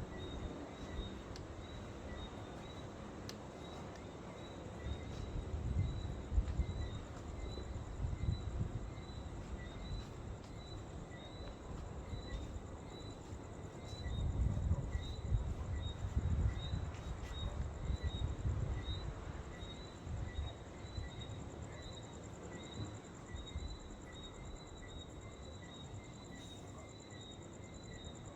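Night insects chirping in a steady, evenly pulsed chorus. Gusts of wind rumble on the microphone, rising twice to a stronger buffeting.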